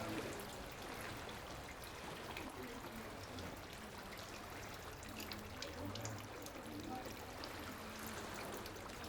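Running water, with a steady rush and small splashes.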